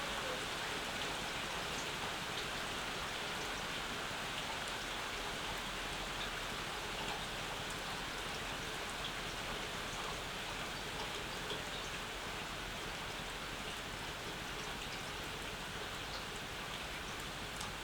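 Steady summer rain falling, with scattered individual drips ticking through the even hiss.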